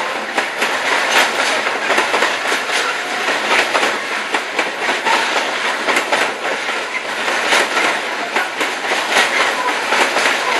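Freight train wagons rolling past close by, a steady loud rumble of wheels on rails with repeated clicks and knocks as the wheels cross rail joints.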